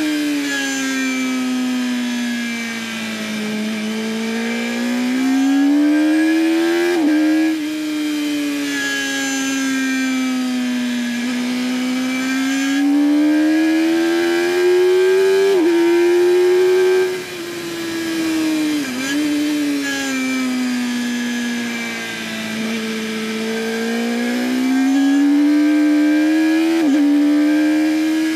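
2008 Yamaha R1's inline-four engine at racing speed, heard through a camera mounted on the bike, over wind rush. Its pitch rises and falls as the rider accelerates and brakes through the corners, with a few sudden jumps in the note at gear changes.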